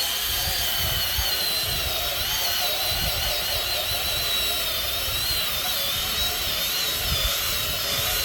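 Pressure washer running steadily and spraying: a constant hiss of water with a high, slightly wavering motor whine over it.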